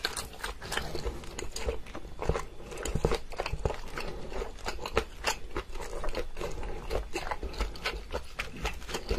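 Close-miked eating sounds: a person biting and chewing food, a dense run of quick wet clicks and crunches with no steady rhythm.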